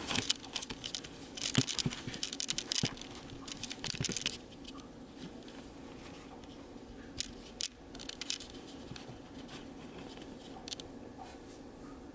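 Rustling and scratching for about four seconds, then a few scattered clicks over a steady low hum.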